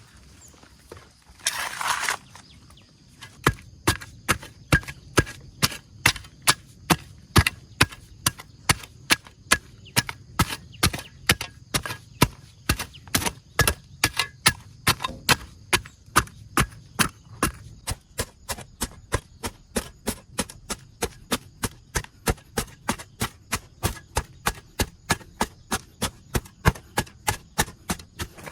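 Repeated chopping strikes of a blade into wood, steady and even at about two to three blows a second, starting a few seconds in after a brief rustling burst.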